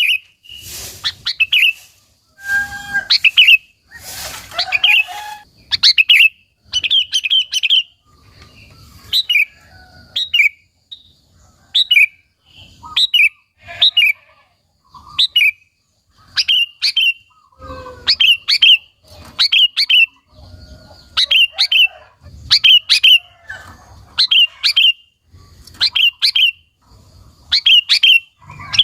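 Sooty-headed bulbul (kutilang) singing vigorously: short, bubbly, whistled phrases repeated about once every second or so. There are some noisy rustles in the first few seconds.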